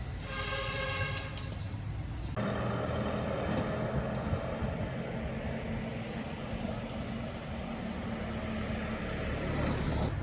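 A motor vehicle engine running steadily. About two seconds in, it turns louder and rougher, and a high pitched tone that sounded over it at the start stops.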